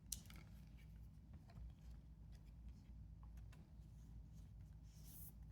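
Near silence: faint clicks and rustles of trading cards being handled, with a short faint slide near the end, over a low steady hum.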